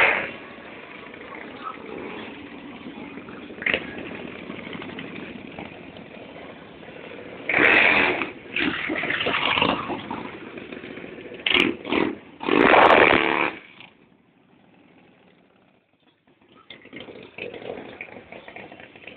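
Motorcycle engines running, with four loud revving bursts about halfway through, then a short quieter spell, heard through a phone's microphone.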